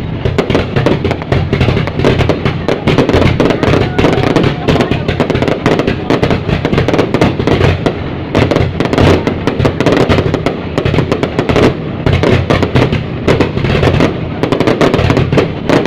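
New Year fireworks display: a dense, continuous barrage of rapid bangs and crackles with no let-up.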